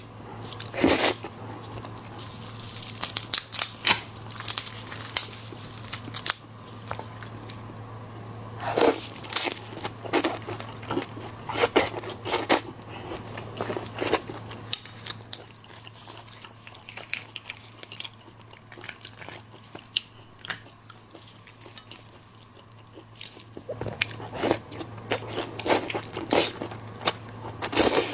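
Close-miked eating of seafood: irregular crisp crunching bites and chewing, thinning out for a few seconds past the middle and picking up again near the end, over a steady low hum.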